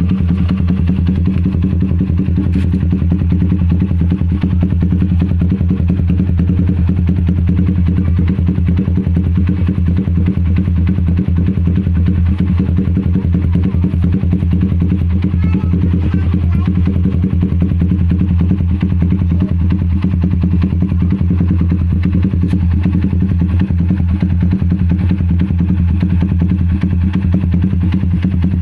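Motorcycle engine idling steadily through an aftermarket Pro Liner exhaust, low-pitched and even, with no revving.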